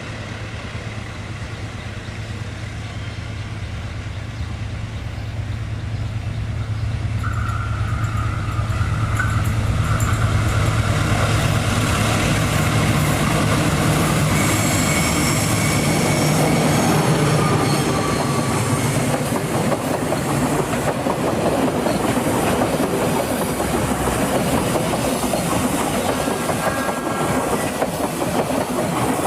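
Diesel-hauled passenger train approaching and passing. The locomotive's low engine hum grows louder over the first ten seconds or so, then the wheels clatter over the rail joints as the carriages run by.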